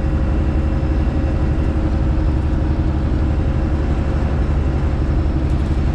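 Straight-piped Detroit Diesel Series 60 inline-six in a Freightliner Classic XL truck running steadily, heard from inside the cab, with an even low drone that holds the same pitch throughout.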